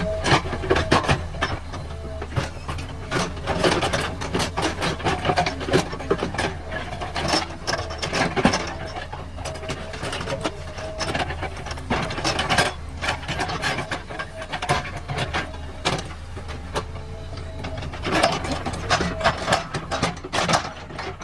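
JCB 3DX backhoe loader's diesel engine running steadily under land-clearing work, with frequent irregular cracks, knocks and clatters throughout.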